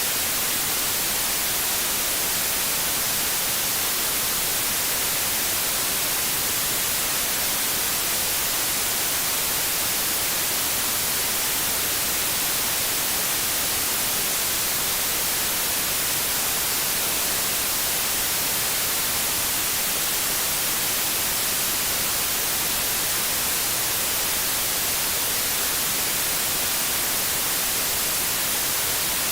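TV static: steady, even white-noise hiss, strongest in the high frequencies, with no change.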